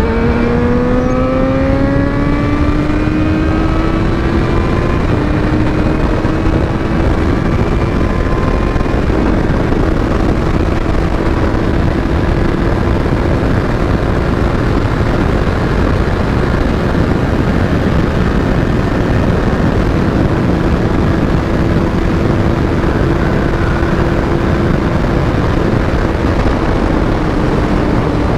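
Yamaha XJ6's 600 cc inline-four engine pulling hard, its pitch rising for the first few seconds and then holding steady at high revs, with a constant rush of wind noise over it.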